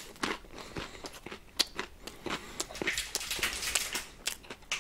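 Close-up chewing of a mouthful of salami, cheese and crunchy mini pretzel: an irregular run of crisp crunches.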